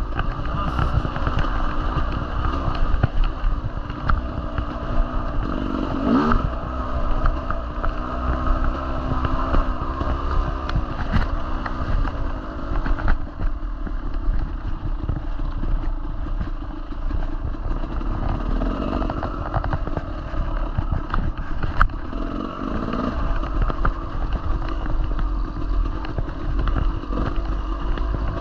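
Dirt bike engine running under riding load, its revs rising and falling with the throttle, over a steady low rumble, with scattered clattering knocks.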